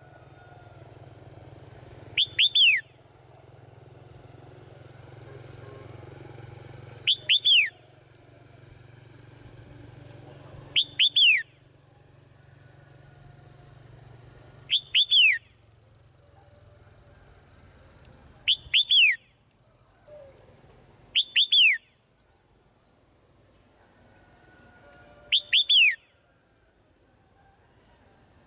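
Swallow calling: a short pair of quick falling whistles, repeated about every four seconds, seven times in all. A faint low hum underneath stops about halfway through.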